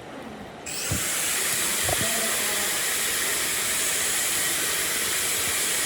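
Compressed air hissing in a steady jet that starts abruptly less than a second in, with a couple of light knocks.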